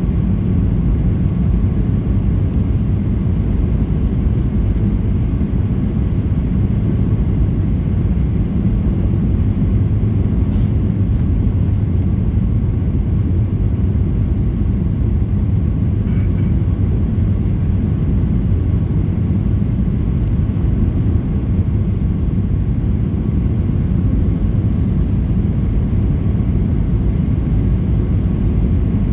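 Boeing 737-800 cabin noise: its CFM56 turbofan engines and the airflow give a steady, even low rumble.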